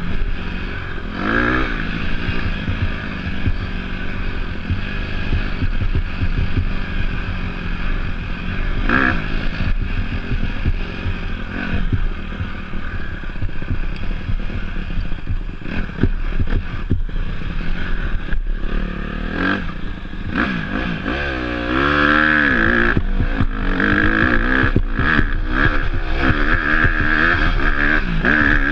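Off-road motorcycle engine running while being ridden, its pitch rising and falling with the throttle, with frequent knocks and rattles of the bike over rough ground. From about 22 seconds in the engine gets louder and its revs swing up and down repeatedly.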